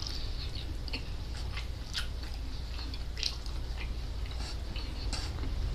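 Close-miked chewing and biting: irregular wet mouth clicks and small crunches of food being eaten, over a steady low hum.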